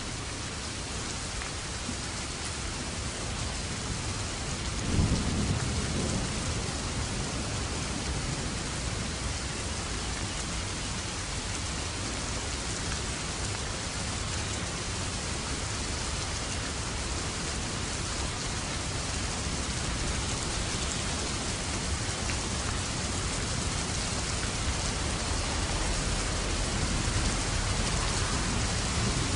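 Steady rain falling, with a clap of thunder about five seconds in that rolls on as a low rumble, and another rumble of thunder building near the end.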